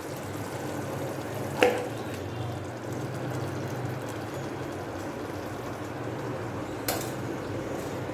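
Marinated chicken cooking in a non-stick pan with a steady sizzle, broken by two sharp clinks of a utensil against the pan, one about one and a half seconds in and one near the end.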